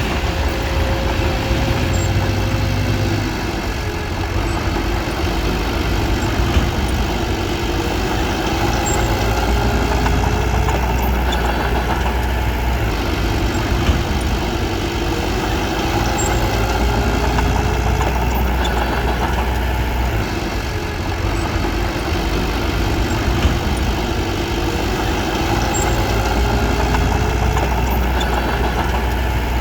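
Bulldozer's diesel engine running steadily as it works, its low engine note shifting a few times.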